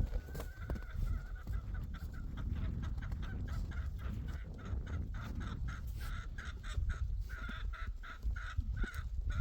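Domestic fowl calling: a run of short calls at the same pitch, coming thicker from about six seconds in, over a steady low rumble.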